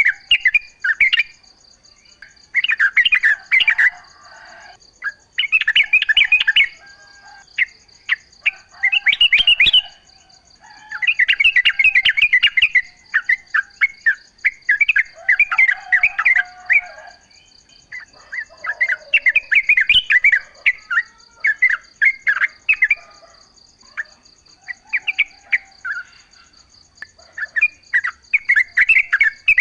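Yellow-vented bulbul (trucukan) singing: bubbly, chattering phrases of a second or two, repeated every few seconds, over a steady high pulsing drone like insects.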